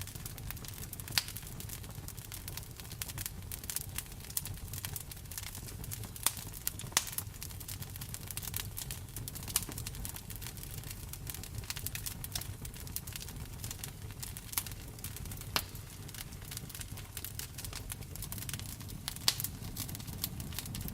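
Wood fire in a fireplace crackling with frequent sharp pops, a few of them louder, over a low steady rumble of the flames, with rain hissing behind.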